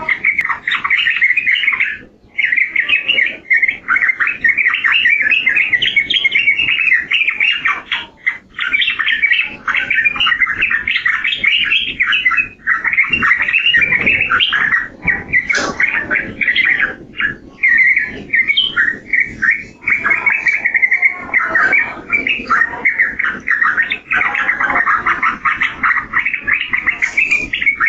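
Yellow-vented bulbul (trucukan) singing a rapid, almost unbroken chattering warble, with short pauses about two and eight seconds in.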